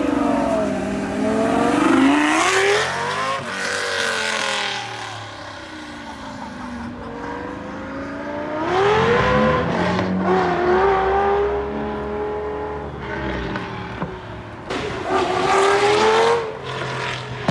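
Ferrari sports car engines revving hard and accelerating away, the engine note rising and falling in three loud pulls, near the start, in the middle and near the end.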